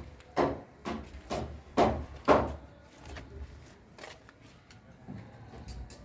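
Five sharp knocks about half a second apart, like a hammer being struck, the last two the loudest, followed by a few fainter scattered taps.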